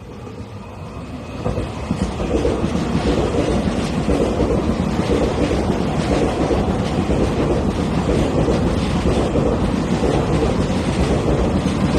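A train passing close by at speed. The noise builds over the first second and a half, then holds as a loud, steady rush of wheels on rail, with repeated clacks as the wheels cross rail joints.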